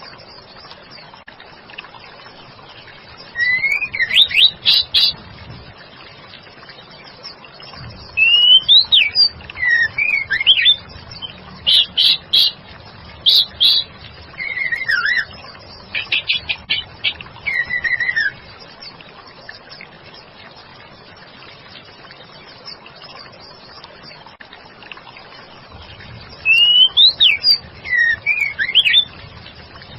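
Female white-rumped shama calling in full voice: bouts of rising and falling whistled notes and quick runs of repeated short notes, separated by pauses of several seconds over a steady hiss.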